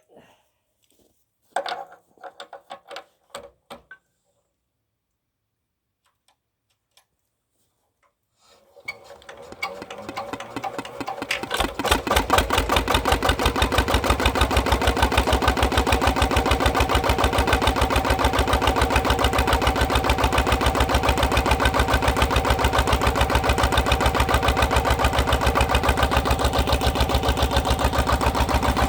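A few scattered knocks and clicks, then, about eight seconds in, a power tiller's single-cylinder diesel engine starts from cold, picking up over a few seconds and settling into a steady run with a rapid, even beat.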